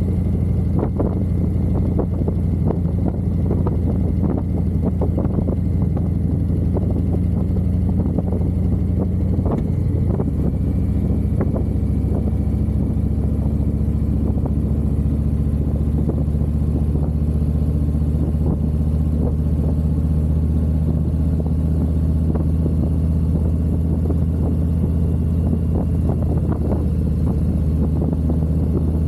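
Harley-Davidson V-twin motorcycle engine running under way on the road, a steady low engine note that changes pitch about ten seconds in.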